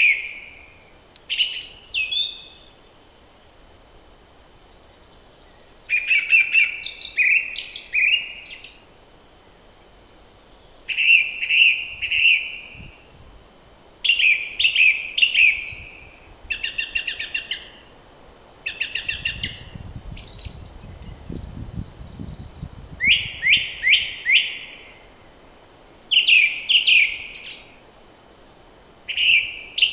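Spring songbirds singing short, repeated song phrases every few seconds, several voices overlapping at times. A low rumble comes in for a few seconds about two-thirds of the way through.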